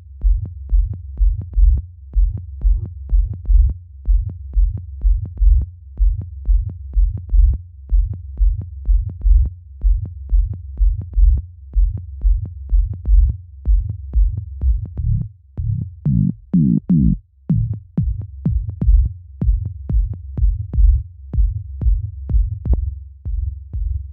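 Electronic dance track in progress playing back: a repeating drum-machine kick and bass loop, with a synth sound that bends up and back down in pitch about two-thirds of the way through.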